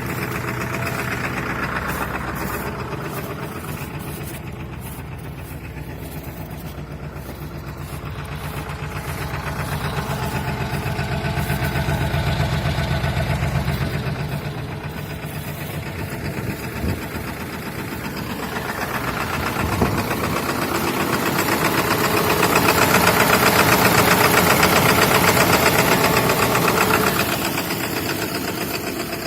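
2003 Ford F-350's 7.3 Powerstroke V8 turbo diesel running after a cold start at −35 °C. Its sound swells up and falls back twice. The owner puts its trouble down to bad injectors.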